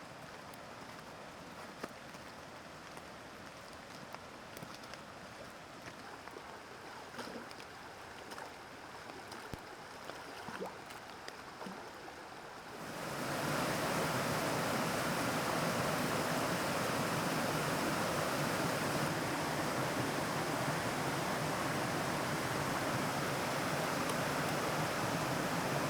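Mountain stream rushing, a loud even flow of water that cuts in suddenly about halfway through. Before it, a quieter background with scattered light drips and ticks, as of rain falling in the forest.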